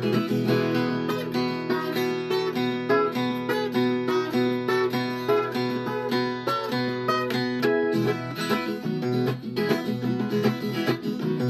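Viola caipira played solo, a quick run of plucked notes over a steady low bass drone, in the country style of Brazilian viola music.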